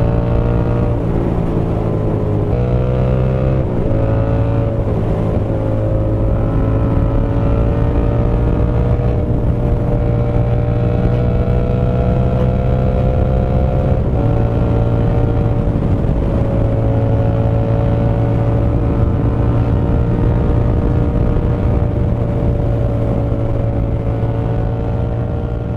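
Yamaha MT-07's 689 cc parallel-twin engine, breathing through an SC Project full exhaust system with no baffle fitted, under way and loud. Its note drops twice early on as it changes up, climbs slowly, drops again about fourteen seconds in, then holds steady.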